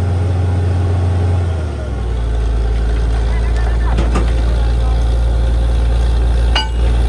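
Borewell drilling rig's engine running steadily with a deep hum; about two seconds in its note drops lower and holds there.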